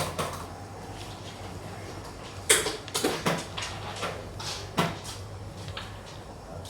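Xiangqi (Vietnamese chess) pieces clacked down on the board: one sharp click about two and a half seconds in, two more close together about half a second later, and another near five seconds, over a low steady hum.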